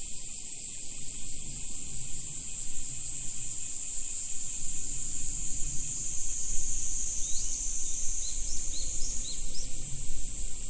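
A steady, high-pitched insect chorus drones without a break. In the second half a bird gives a quick series of short, rising chirps.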